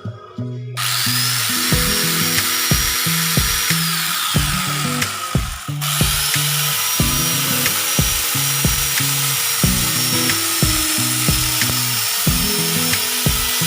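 Electric RYU angle grinder driving an NRT PRO chainsaw adaptor, starting up about a second in and cutting wood. Its high whine drops in pitch as it works, and the saw stops briefly near the middle, then starts again and runs steadily. Background music plays underneath.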